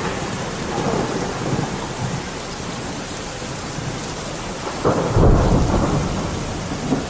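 Steady heavy rainfall hissing, with thunder rumbling underneath: a soft roll about a second in, then a louder thunderclap about five seconds in that rumbles and dies away over the next couple of seconds.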